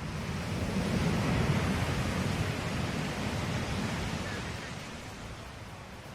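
Ocean waves washing on a shore: one surge of surf builds over the first second and a half, then slowly draws back and fades.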